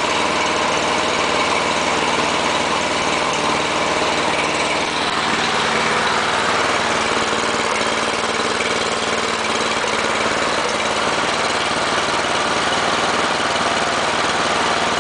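Two small Briggs & Stratton engines, an L-head and a just-cold-started overhead-valve engine, running together steadily at idle.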